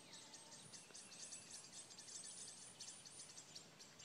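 Faint songbird chirping: a quick series of short, high chirps, about six a second, over quiet outdoor background hiss.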